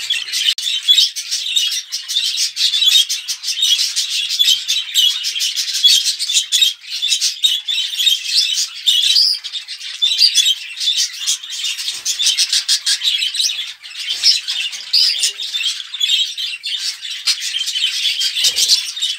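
A flock of budgerigars chattering and warbling together, a dense, unbroken twittering with sharp chirps and squawks.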